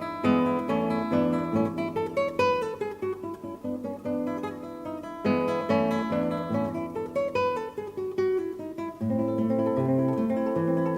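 Background acoustic guitar music: plucked notes with two falling runs of notes, settling into a lower, steadier repeated figure about nine seconds in.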